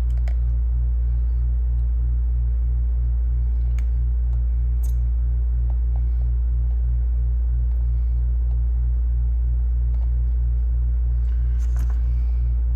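Steady low electrical hum with a faint pulsing about four times a second, and a few faint clicks and taps.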